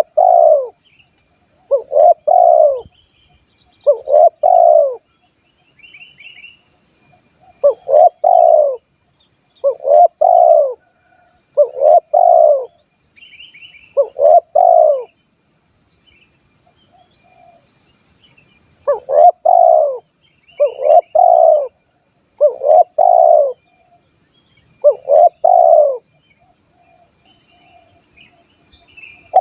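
Spotted dove (tekukur) cooing: phrases of two or three low, mellow notes repeated about every two seconds, with a pause of a few seconds past the middle. Faint chirps of other birds and a steady high insect drone sit underneath.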